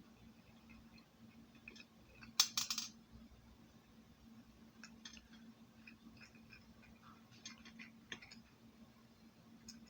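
Faint small metallic clicks and taps of a screwdriver working the tiny screws out of a pressure gauge's dial plate, with a brief louder clatter about two and a half seconds in, over a low steady hum.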